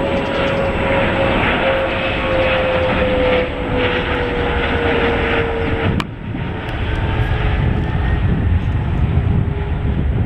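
Jet airliner flying low overhead, loud engine noise with a whine slowly falling in pitch. About six seconds in the sound breaks off abruptly into a deeper jet rumble.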